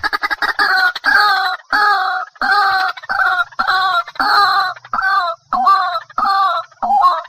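White-breasted waterhen calling: a quick run of notes at the start, then a steady string of repeated calls, about two a second.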